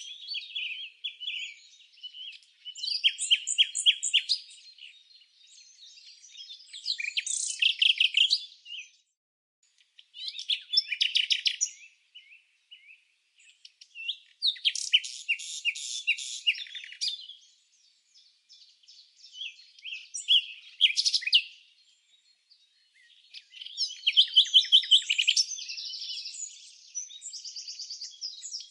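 Birds chirping in quick bursts of rapid, high chirps and trills, each phrase a second or two long, repeating every few seconds with short pauses between.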